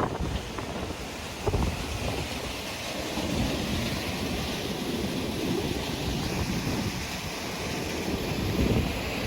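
Wind buffeting the microphone outdoors: a steady rushing noise with low rumbling gusts.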